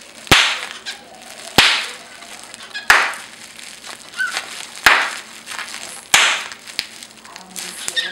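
Packing bubbles popping one at a time, a sharp crack with a short hiss after it about every second and a bit, five or six times. A brief high chirp comes from the cockatiel about four seconds in.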